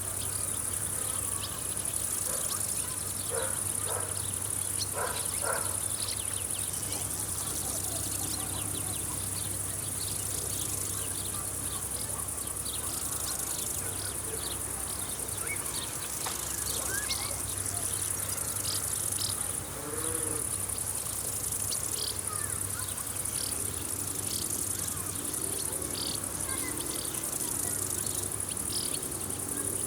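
Insects chirring steadily in a high pitch, the sound pulsing in long stretches, with short bird chirps scattered through it.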